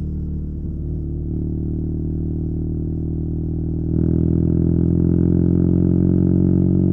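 BMW R nineT's boxer-twin engine running at a steady speed through a Competition Werkes slip-on exhaust. It gets louder about four seconds in, with no change in pitch, and holds there.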